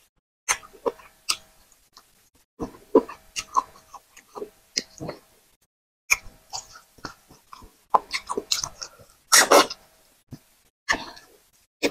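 Close-miked wet chewing and lip smacking as a person eats potato fufu with vegetable soup by hand, in irregular squelchy smacks and clicks with short silent gaps. A longer, louder burst comes about three-quarters of the way through.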